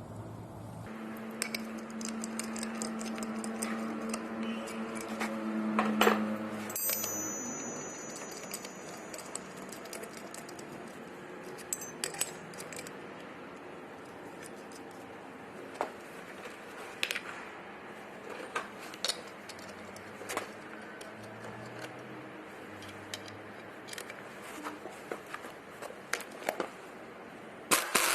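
Scattered light metallic clinks and taps of hand tools on a car wheel hub as the race sleeve of a worn, dry wheel bearing is worked off it. A steady hum runs under the first few seconds.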